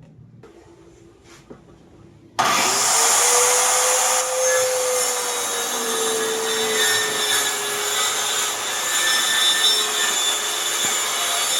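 An electric power tool starts up suddenly about two seconds in and cuts into wood. Its motor whine rises, then sags slowly in pitch under the load, and it runs on steadily.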